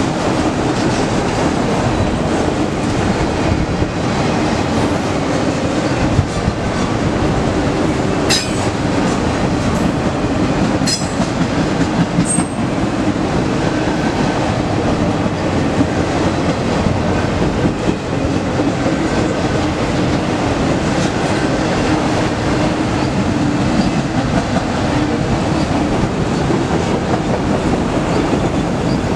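Autorack freight cars rolling past on steel rails: a steady, loud rumble of wheels with clickety-clack over the rail joints. A few short, sharp high-pitched sounds stand out about eight to twelve seconds in.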